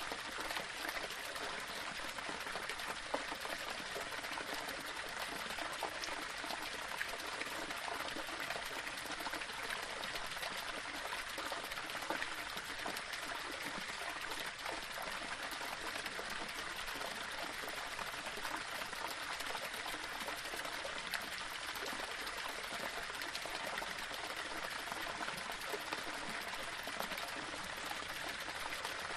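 Small waterfall splashing and trickling steadily over rocks, an even rushing hiss with small splashes throughout.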